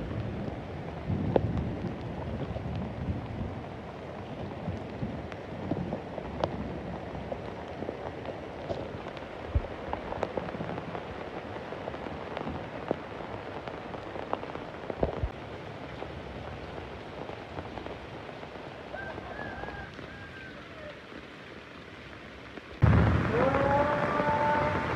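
Steady rain with many individual drops striking close by, and a low rumble of thunder in the first few seconds. Near the end the sound cuts abruptly to a louder section with a steady pitched tone over it.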